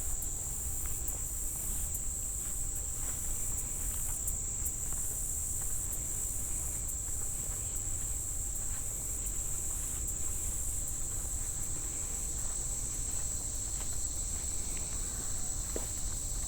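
A chorus of crickets in grassland, a steady high-pitched trill without a break, over a low, even rumble.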